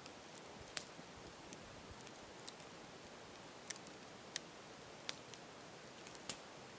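Campfire crackling: sharp, irregular pops and snaps from the burning wood, roughly one a second, over a soft steady hiss, with the loudest snap near the end.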